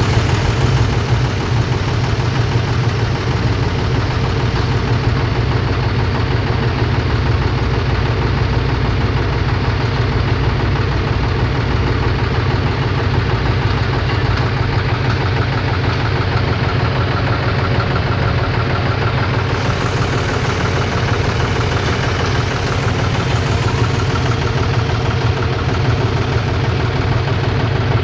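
Diesel engine of a tractor or loader running steadily near idle: a loud, even low throb that holds the same speed throughout.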